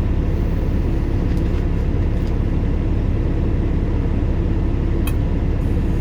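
Semi truck's diesel engine idling, a steady low rumble heard from inside the cab, with a faint click about five seconds in.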